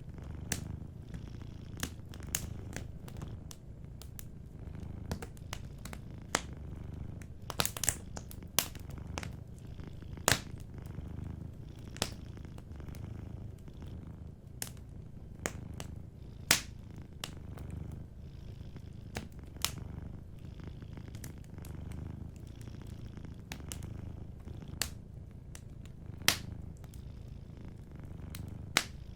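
A cat purring steadily in a low pulsing rumble, over a wood fire crackling with sharp, irregular pops, a quick cluster of them about eight seconds in.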